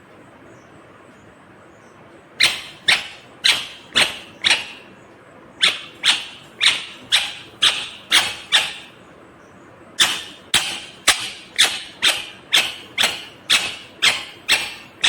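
Indian ringneck parrot screeching: a harsh, sharp call repeated about twice a second in three runs of roughly five, seven and eleven calls, with short pauses between the runs.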